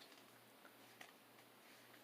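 Near silence with a few faint clicks of cards being handled.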